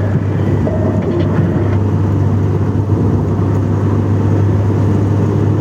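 Steady motor-vehicle engine and road noise, an even low rumble with no change.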